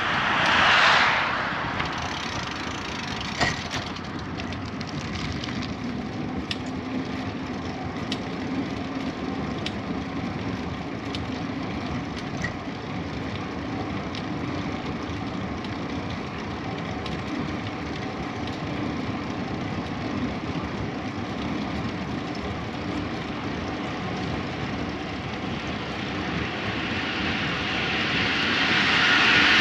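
Steady rolling and wind noise of a bicycle ride, with scattered light clicks. A louder passing whoosh builds near the end.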